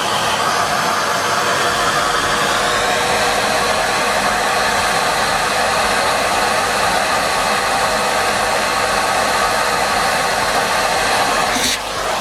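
Numatic Henry Pet vacuum cleaner running steadily: an even rush of air with a faint steady motor whine, broken briefly near the end.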